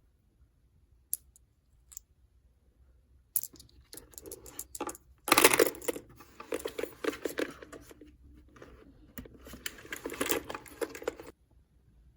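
Small plastic toy pieces being handled: a few light clicks, then several seconds of clattering, clicking and crinkly rustling, loudest just over five seconds in, before it stops abruptly near the end.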